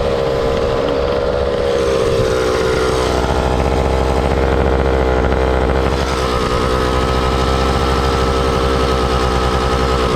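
Motor scooter engine running steadily at speed. Its note shifts slightly about two seconds in and again about six seconds in, when a higher whine joins it.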